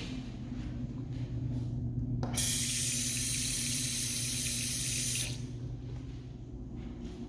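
Water running hard from a restroom sink tap for about three seconds, starting and stopping abruptly, over a steady low hum.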